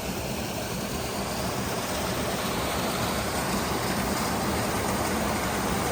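Steady rush of flowing water, slowly growing louder.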